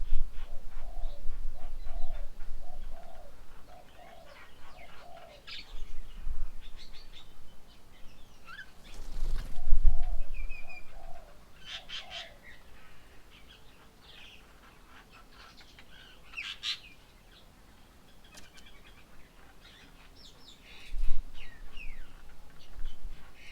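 Small birds calling around a garden bird table: scattered high chirps and short calls, with a run of low repeated notes near the start and again about ten seconds in. A brief rush of noise with a low rumble about nine seconds in.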